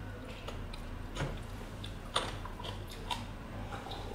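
Close mouth sounds of a person chewing food: scattered wet smacks and clicks.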